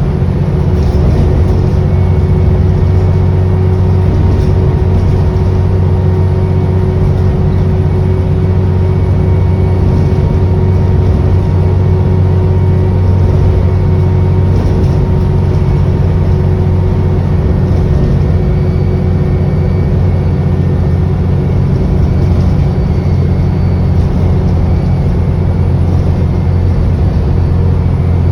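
ADL Enviro400 double-decker bus under way, heard on board: a steady low engine drone with thin, steady whining tones above it from the turbocharger. Just past halfway one whine tone fades, and higher ones come in.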